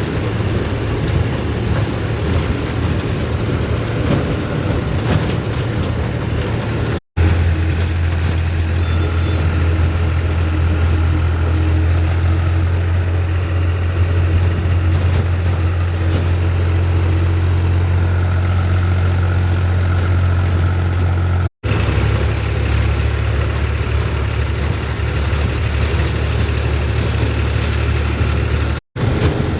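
Tractor engine running steadily with a deep, even drone. The sound breaks off for an instant three times, at cuts between clips.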